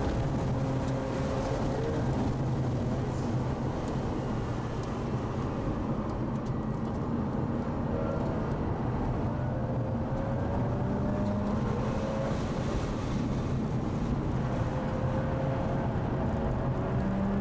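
Mazda RX-8's two-rotor Renesis rotary engine heard from inside the cabin while lapping a track, its note holding and dipping through the corners and climbing in pitch as the car accelerates in the second half, over steady tyre and wind noise.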